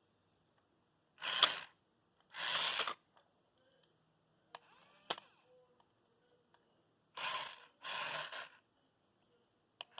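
A person's audible breaths: two pairs of short, breathy puffs, with a few faint clicks between them.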